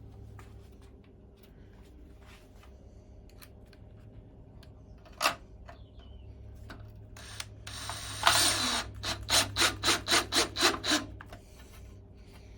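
Wood screws being driven into a board with a screwdriver: scattered small clicks, a sharp knock about five seconds in, then a rasping turn followed by a run of short even strokes at about four a second as the screw bites into the wood.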